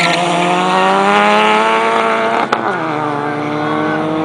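Turbocharged Nissan Sentra's engine accelerating, its pitch climbing steadily, then a sharp click and a drop in pitch about two and a half seconds in, a gear change, after which the pitch climbs again.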